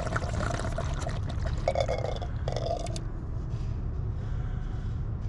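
Liquid pouring and trickling in two short spells about two seconds in, over a steady low hum.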